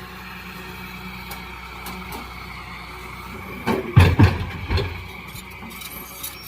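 Hyundai 210 excavator's diesel engine running steadily, with a short burst of several loud thumps and knocks about four seconds in.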